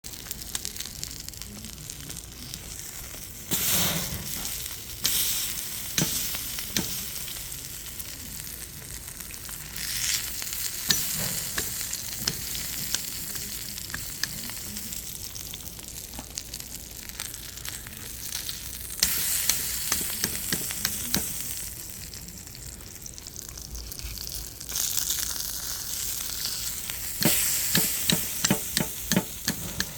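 Pork neck and pork belly sizzling on a grill over oak charcoal and firewood: a steady hiss that swells several times, with sharp pops and crackles that come thick and fast near the end.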